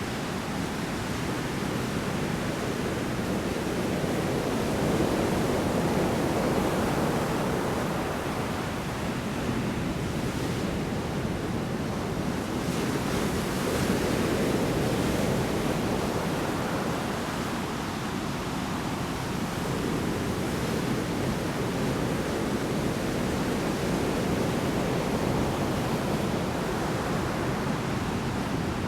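Heavy surf in a storm: big waves breaking on the shore in a continuous wash of water noise. It swells louder with each set of breakers, about every eight to ten seconds.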